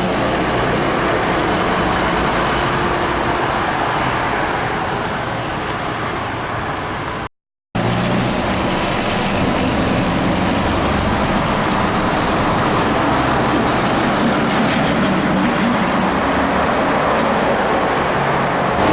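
Expressway traffic with trucks going by: steady engine drone and tyre noise, cut off by a moment of total silence about seven seconds in, then continuing.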